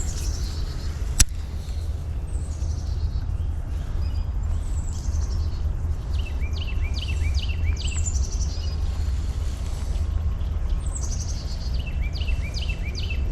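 A songbird singing the same phrase again and again, about every three seconds: a high falling note followed by a quick run of downward slurs. A steady low rumble runs underneath, and there is a single sharp click about a second in.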